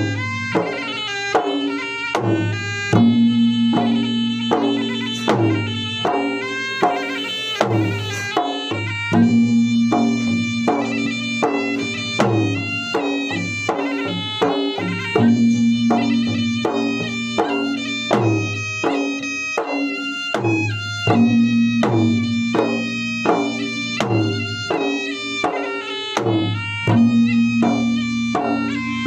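Traditional Makassarese gendang music for a wedding: frequent drum strokes under a pitched melody. A phrase with a held low note comes round about every six seconds.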